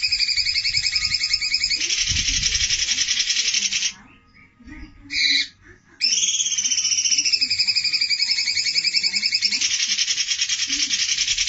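Looped bird call recording: the same rapid high trill plays twice, each about five seconds long, starting as a two-toned wavering warble and turning into a dense buzzing rattle, with a short pause between.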